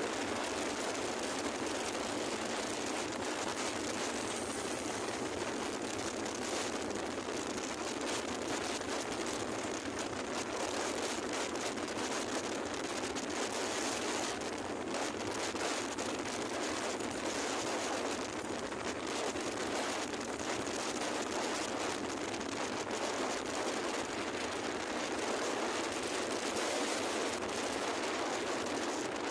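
Steady rushing noise of a vehicle under way: engine running with wind buffeting the microphone, at an even level throughout.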